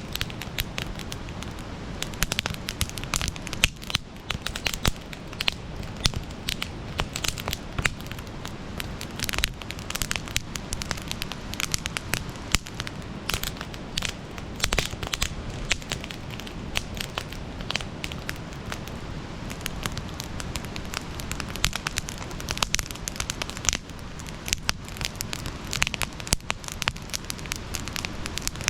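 Campfire crackling, with dense irregular pops and snaps over a steady low rush of the flames.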